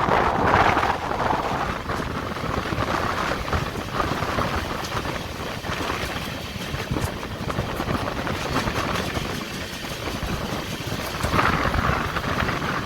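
Running noise of a moving passenger train heard from on board, with wind buffeting the microphone. It rises and falls unevenly, loudest about a second in and again near the end.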